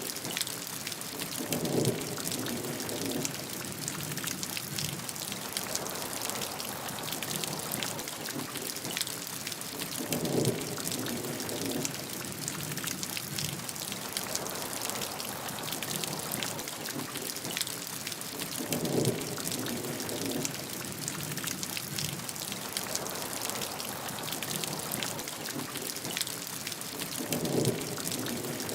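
Steady rain with a dense patter of drops, and a short low rumble of thunder about every eight to nine seconds, four times.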